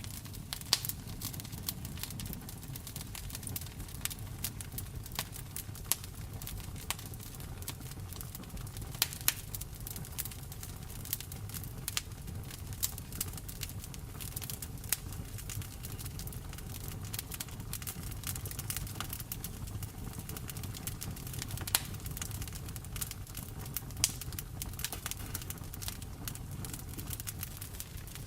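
Wood fire crackling in a fireplace, irregular sharp pops and snaps over a steady background of rain.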